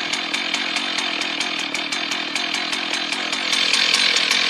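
Two-stroke chainsaw running steadily, growing louder about three and a half seconds in.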